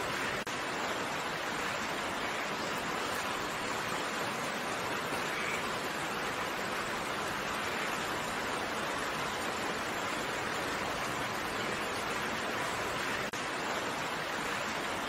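Steady rain, an even hiss of falling raindrops, with two momentary dips in level, about half a second in and near the end.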